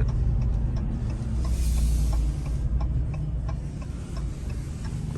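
Supercharged 6.2-litre V8 of a Ram TRX pickup running with a deep, low rumble that eases off about halfway through.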